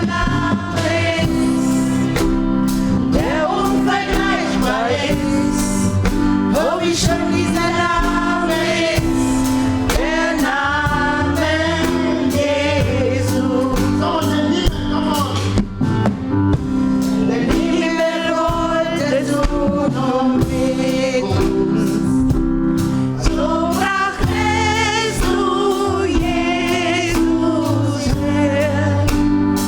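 Gospel singers performing live, voices with vibrato over steady instrumental accompaniment and a beat.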